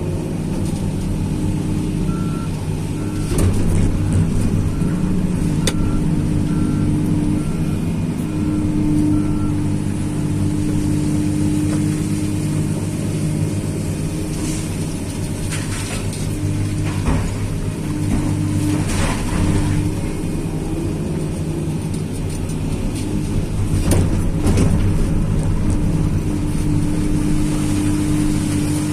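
Tracked excavator's diesel engine running steadily under working load, with occasional knocks and surges from the digging. For several seconds near the start a reversing or travel alarm beeps at an even pace.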